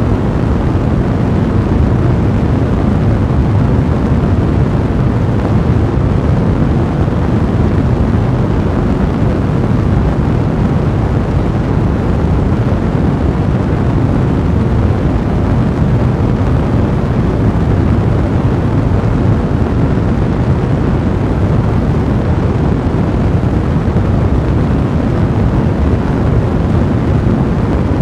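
Fireplace fire burning steadily: a deep, even rumble of flames with crackling throughout.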